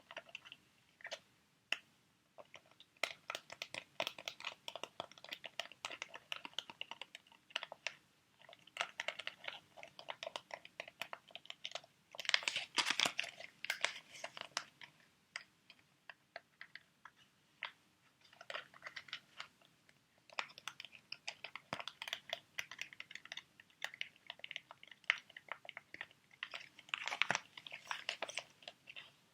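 Plastic sheet-mask packets being handled, crinkling and crackling in quick runs of small clicks, with a louder stretch of crinkling about twelve seconds in.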